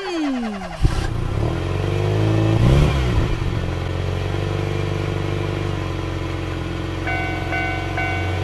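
Animated train sound effects: a steady low engine rumble follows a falling tone and a knock about a second in, with a brief rise and fall in pitch near three seconds. Near the end a railroad-crossing alarm joins in, its tones pulsing about twice a second.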